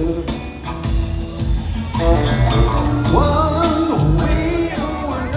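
Live rock trio playing, with drums, bass and electric guitar under a held, bending sung or guitar line, as heard through a phone's microphone in the hall.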